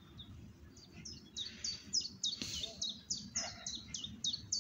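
A small songbird singing a fast run of short, high, whistled notes, each sliding downward, repeated about three times a second, starting about a second in.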